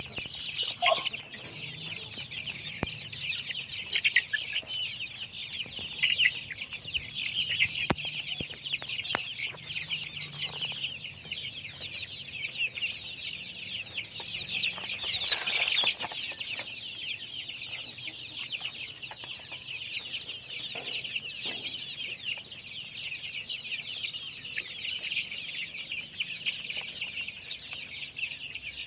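A flock of country chickens calling together: a dense, unbroken chorus of high cheeping, with a few louder calls standing out now and then.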